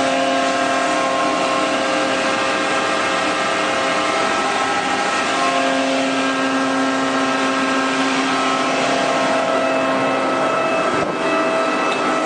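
Haas TL3B CNC lathe powered up and running: a steady mechanical hum with several steady whining tones from its motors. The tones shift slightly about two-thirds of the way through.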